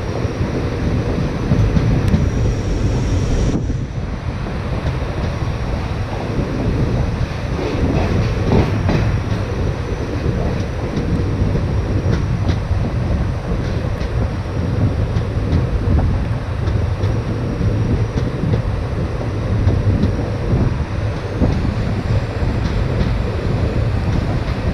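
Passenger train coaches running along the track, heard from the coach side: a steady, heavy low rumble of wheels and running gear with a haze of rail noise over it.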